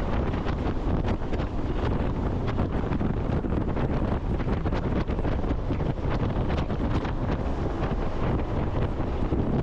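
Heavy wind buffeting the microphone on a jet boat running at speed, over the steady noise of the boat's engine and the water rushing past.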